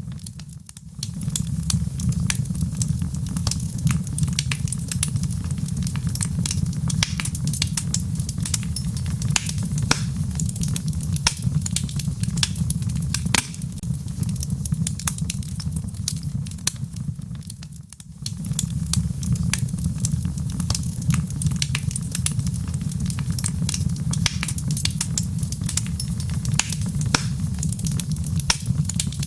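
Wood logs burning in a fireplace: a steady low rumble of the flames with frequent sharp crackles and pops. The sound dips briefly twice, about half a second in and near two-thirds of the way through.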